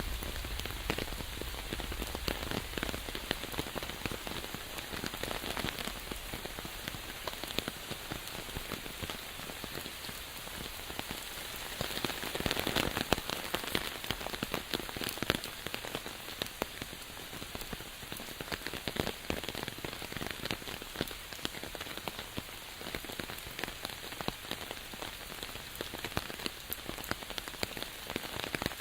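Steady rain falling, with many individual drops ticking on surfaces; it grows louder for a couple of seconds about twelve seconds in.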